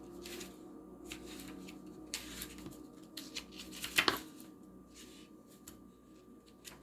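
Tarot cards being handled: soft rustles and light taps, with one louder sharp rustle or flick about four seconds in, over a faint steady hum.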